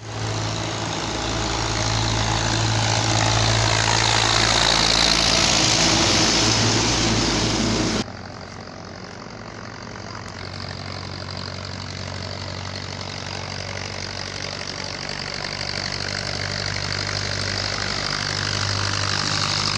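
Belarus tractor's diesel engine running steadily with a low hum. It cuts off abruptly about eight seconds in, then comes back quieter and slowly grows louder as the tractor draws nearer.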